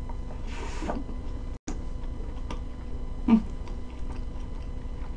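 Chewing a soft, syrup-soaked pancake: quiet wet mouth sounds and small clicks, with a short hum from the eater about three seconds in.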